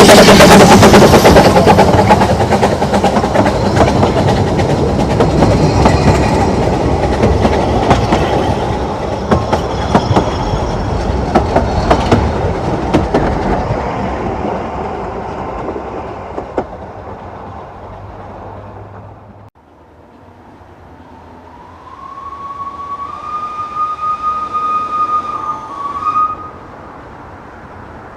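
Narrow-gauge steam train passing close, its carriages clattering over the rail joints, loud at first and fading away over about fifteen seconds. After a sudden cut, a high steady whistle sounds for about four seconds near the end.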